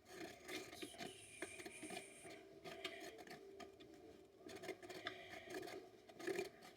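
Washing-machine parts being handled: scattered small knocks and clicks, faint throughout.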